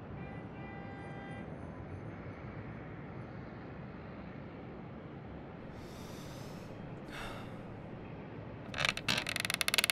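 A quiet steady hiss, then two short breathy sniffs or sighs about a second apart. Near the end comes a loud, rattling, croaking vocal sound: a man choking in a noose.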